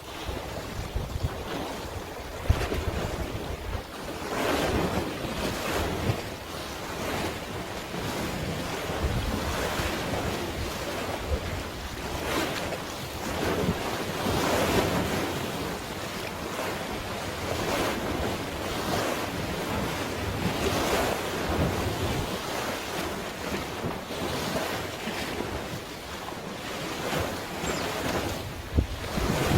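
Waves washing in, swelling and easing every few seconds, with wind buffeting the microphone in low rumbling gusts.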